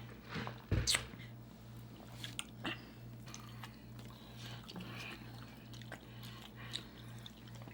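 Close-miked chewing and biting of food, a scatter of short wet clicks and smacks, over a faint steady low hum.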